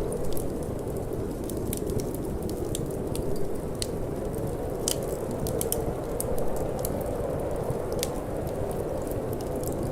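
Wood fire in a fireplace crackling, with sharp irregular pops several times a second over a steady low rush of wind.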